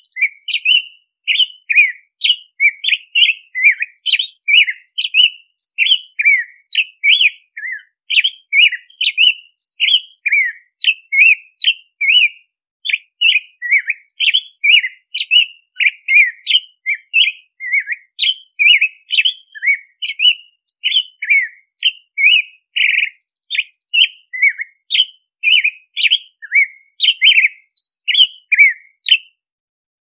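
American robin singing: a steady stream of short, clear, down-slurred notes, about three a second, with a brief pause about twelve seconds in.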